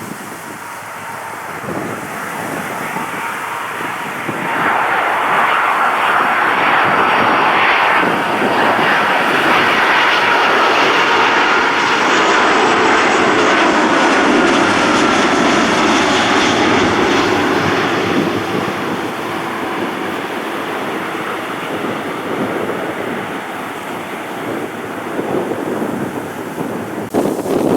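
Jet airliner engines passing close by: the noise swells about four seconds in, with a whine that slowly falls in pitch, then eases off after about eighteen seconds.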